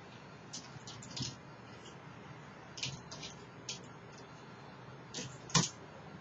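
About eight short, sharp clicks and taps at irregular spacing, the loudest near the end, over a steady faint hiss.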